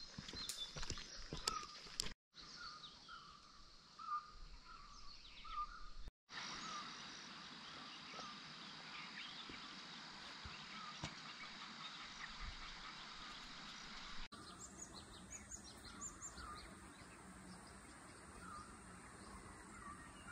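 Faint outdoor ambience with scattered small bird chirps. A few sharp taps come in the first couple of seconds, and the background hiss changes abruptly three times where shots are joined.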